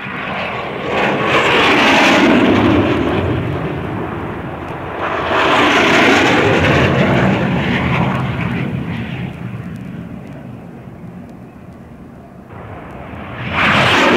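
Jet aircraft making low passes at a flying display, three times swelling up and fading away, the pitch falling as each goes by.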